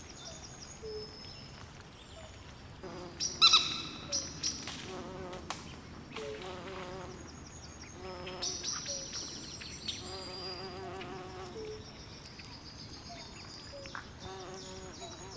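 Swamp night chorus of frogs, insects and birds calling over one another: high repeated chirps and warbling trills, loudest in a burst of calls about three to five seconds in.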